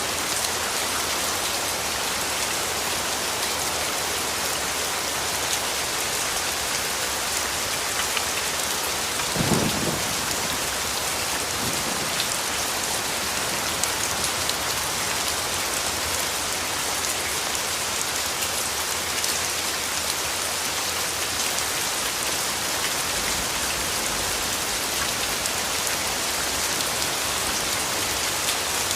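Steady rain falling, an even hiss of drops, with a brief low rumble of thunder about ten seconds in.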